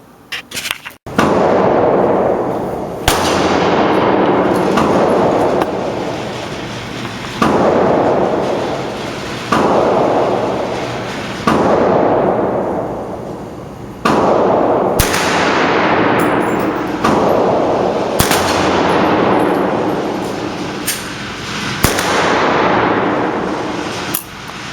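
About a dozen single 9mm pistol shots, fired one at a time every one to three seconds, each a sharp crack followed by a long, slowly fading echo.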